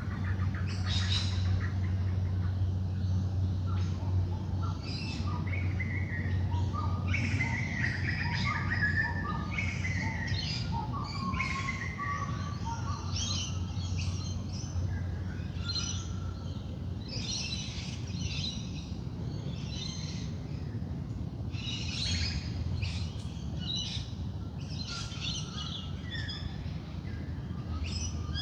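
Dawn chorus of wild birds: many overlapping songs and calls, some sliding down in pitch, over a steady low hum.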